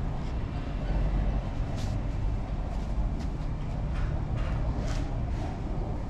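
Heavy truck engine running with a steady low rumble. Several short, sharp hissing clicks cut through it, about a second apart in the second half.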